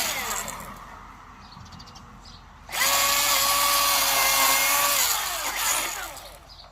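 Milwaukee battery-powered chainsaw: its high whine winds down at the start, then after a short pause it starts up suddenly, runs at a steady full speed for about two and a half seconds, and winds down again near the end.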